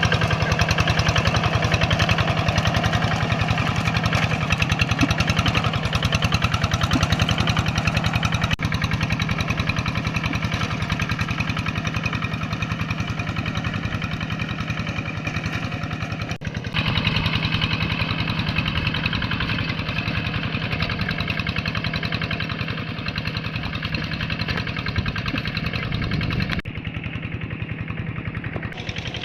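Tractor engine running steadily with a fast, even pulse. Its sound changes abruptly three times, about 9, 17 and 27 seconds in, at cuts between shots.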